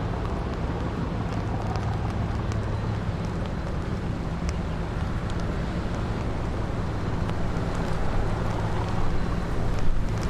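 Diesel engine of a river sand barge running with a steady low drone under the hiss of wind on the microphone, growing a little louder near the end.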